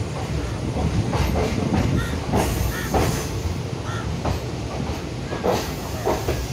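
Express passenger train coach rolling along. Its wheels give irregular sharp clacks over rail joints and points above a steady rumble, heard from the open coach doorway.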